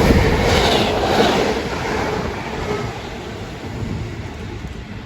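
Passenger train running through the station without stopping, its wheels and rumble loudest at first, then fading as it moves away.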